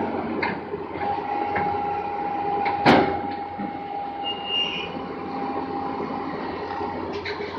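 Heavy vehicle running steadily, with a steady whine through the noise and a sharp knock about three seconds in.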